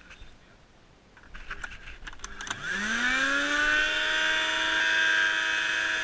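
A few light clicks and knocks, then the motor of a vacuum cleaner modified to suck up bees switches on about two and a half seconds in. Its whine rises quickly in pitch and settles into a steady run.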